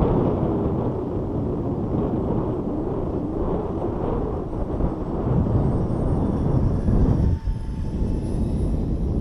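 Thin high whine of a model A320 airliner's twin 40 mm electric ducted fans, rising in pitch about seven seconds in and then holding steady, over a loud low rumble of wind buffeting the microphone.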